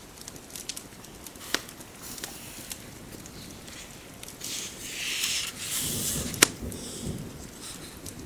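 Fireplace crackling with scattered sharp pops over a soft bed of rain. The loudest pop comes about six and a half seconds in, just after a louder rustling swell that lasts a second or two.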